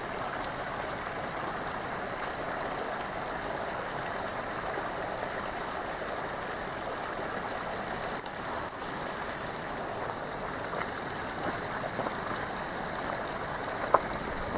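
Steady rushing of running water, with a few light knocks and one sharper click near the end.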